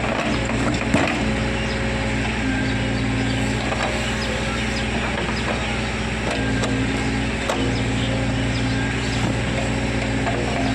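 Diesel engine of a tractor-mounted dozer running steadily under work, with a few short knocks, the loudest about a second in.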